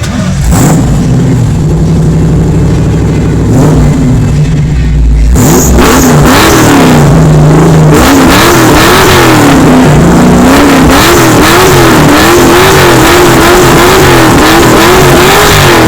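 Ford Maverick's 302 cubic-inch V8 with a four-barrel carburettor running steadily. About five seconds in it gets louder and is revved over and over, its pitch rising and falling about once a second.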